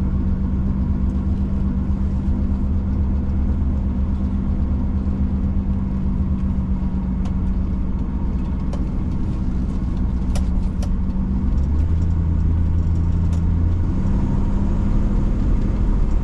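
1965 Ford Mustang's 289 two-barrel V8 running steadily as the car drives. Its note drops about twelve seconds in and comes back up about two seconds later. A few faint clicks come near the ten-second mark.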